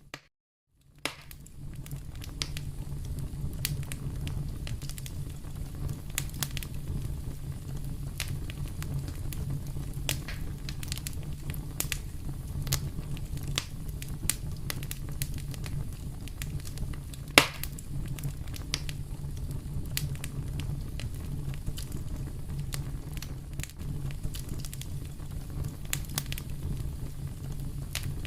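Wood fire burning in a fireplace, a steady low rumble with constant crackling and scattered pops, one loud pop about two-thirds of the way through. The sound drops out for under a second right at the start.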